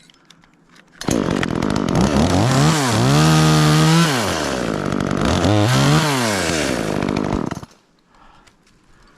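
A chainsaw starts about a second in, is revved up twice as it cuts through a limb, and stops suddenly about a second and a half before the end.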